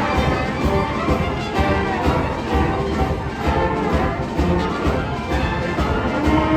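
A high school wind ensemble playing a piece with a steady beat.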